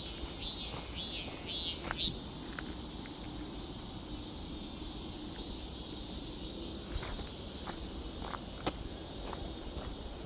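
Footsteps crunching on forest floor litter, about two steps a second, stopping about two seconds in. A steady high insect drone carries on underneath, with scattered small clicks and snaps.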